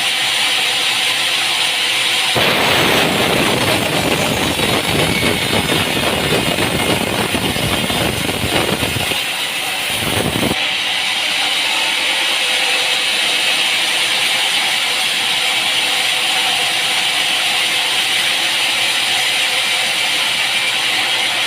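Loud, steady machine noise. A rougher, crackling noise joins it about two seconds in, drops out briefly near nine seconds, and stops about ten seconds in.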